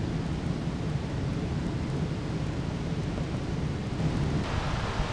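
Optimus camping stove burner running with a steady low roar under a pot of water being heated. A brighter hiss joins about four seconds in.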